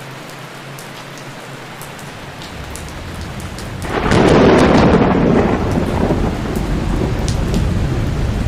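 Steady rain falling in a forest, with a thunder rumble breaking in about four seconds in, loudest for a second or two, then rolling on under the rain.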